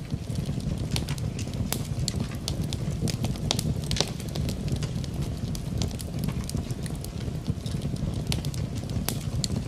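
Wood fire in a fireplace crackling, with sharp irregular pops over a steady low rumble, mixed with the even hiss of rain.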